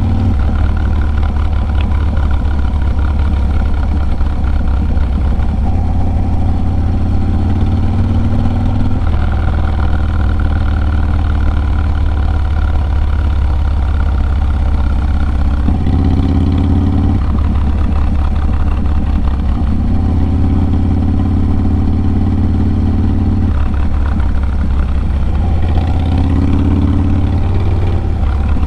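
Harley-Davidson Low Rider S 110-cubic-inch V-twin running loud through a Sawicki Speed 2-into-1 exhaust while riding. Its note shifts in pitch every few seconds as the throttle and gears change.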